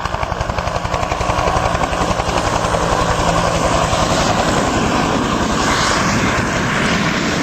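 Bell UH-1H Iroquois helicopter's two-bladed main rotor beating in rapid even pulses over its turbine, growing louder over the first few seconds and then holding, with a rushing noise rising underneath.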